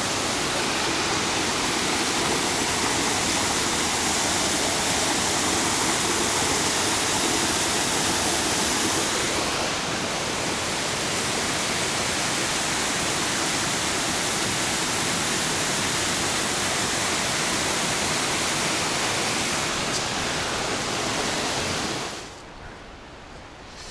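Steady rush of a waterfall, a loud, even roar of falling water that cuts off suddenly near the end.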